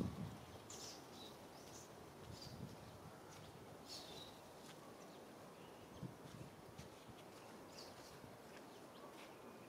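Faint outdoor ambience with a scattering of short, high, falling bird chirps.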